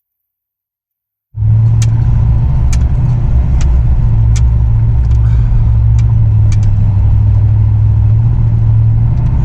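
Truck driving, heard from inside the cab: a loud, steady low engine and road drone that cuts in suddenly about a second in, with sharp ticks about once a second over it.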